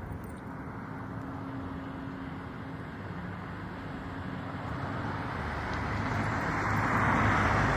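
Outdoor traffic noise with a steady low hum, then a vehicle approaching and growing louder over the last few seconds.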